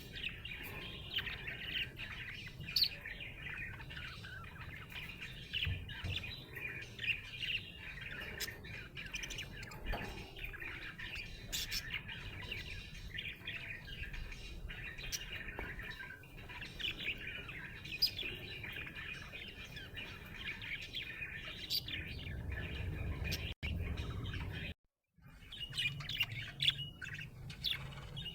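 Budgerigar chirping and chattering in a continuous stream, with sharper high chirps scattered through. The sound cuts out completely for a moment about 25 seconds in.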